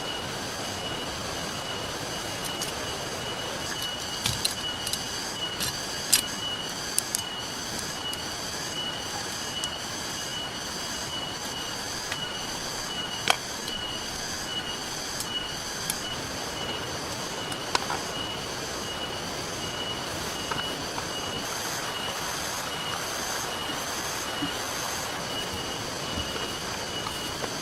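Steady hiss of rain and a flowing river with the sharp, irregular pops of a crackling campfire, the loudest about 6 and 13 seconds in. A high, evenly pulsing chirp runs over the top.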